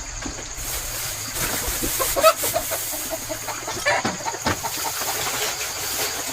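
Chickens clucking: a run of short calls, thickest in the middle, over a steady hiss.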